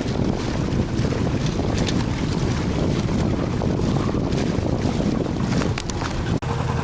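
Wind buffeting the camera microphone aboard a small sailing yacht under way: a loud, rough rushing noise. About six seconds in it breaks off abruptly and a steady low hum takes over.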